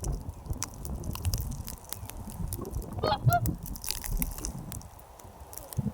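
Geese honking, with one clear call about three seconds in, over scattered sharp clicks and a low rumble.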